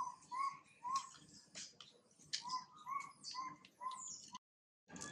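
Birds calling: a run of short repeated notes, about two a second, with quick high chirps and falling whistles above them. The sound cuts out abruptly shortly before the end.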